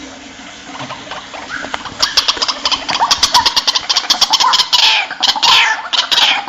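White-breasted waterhen calling: fainter notes at first, then a quick run of sharp repeated notes from about two seconds in, growing into loud calls that slide down in pitch near the end.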